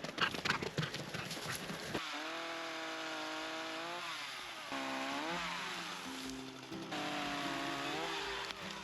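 Clattering steps for about two seconds. Then a two-stroke chainsaw starts running, its engine pitch rising and falling as it is revved through cuts in an olive tree.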